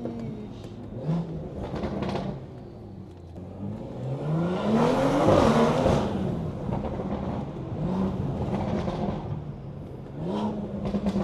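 BMW engine with a loud aftermarket exhaust accelerating hard: the note climbs steeply to its loudest about five seconds in, then eases off, with shorter throttle rises and falls before and after.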